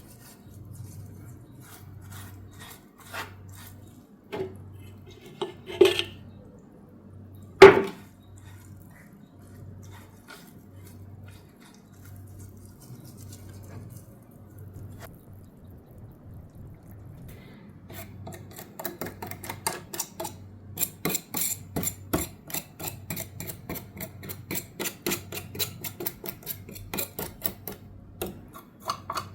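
Small metal parts of a diecast toy car clinking and knocking against a hard surface, a few separate knocks with the loudest near eight seconds in. After about eighteen seconds comes a run of rapid scraping and clicking on metal.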